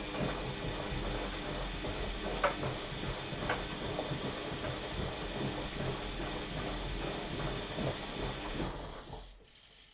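Washing machine running a wash cycle: the drum motor turns with a steady hum under a rushing noise, with a couple of sharp knocks a few seconds in, then winds down and stops near the end.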